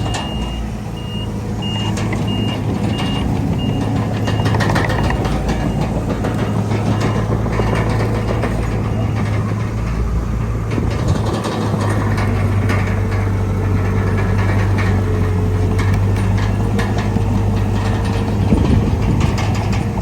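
Heavy diesel earthmoving machinery running steadily with scattered clanks, while a reversing alarm beeps at an even pace for about the first seven seconds.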